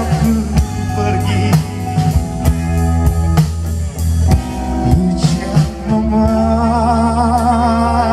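Live pop-rock band playing: drum kit keeping a steady beat over bass and electric guitar. About six seconds in, a long note with a wavering vibrato starts and is held.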